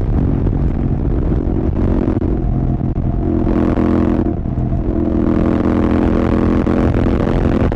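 Royal Enfield Continental GT 650's 648 cc parallel-twin engine running through an aftermarket Red Rooster exhaust while riding at speed. The engine note is steady and breaks briefly about two seconds and again about four and a half seconds in, then settles back.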